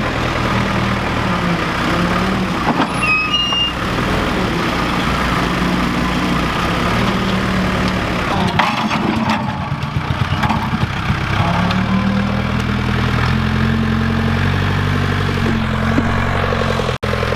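A vehicle engine running steadily, its pitch shifting up and down a few times.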